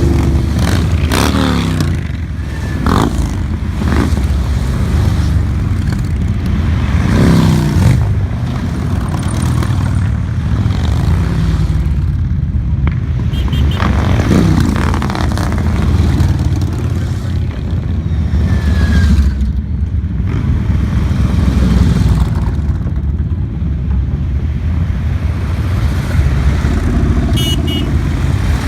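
A procession of motorcycles riding past, a continuous low engine rumble with single bikes rising and falling in pitch several times as they go by.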